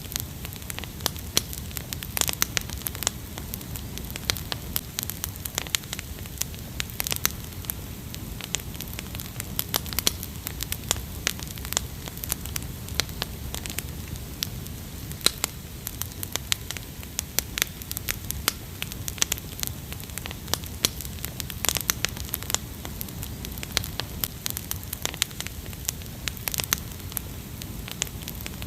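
Wood fire crackling, with frequent irregular pops and snaps over a steady low rush of the flames.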